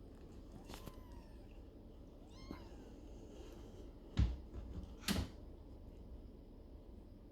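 Maine Coon kittens mewing: a faint high mew near one second in and a small repeated mew about two and a half seconds in. Two short knocks come about four and five seconds in.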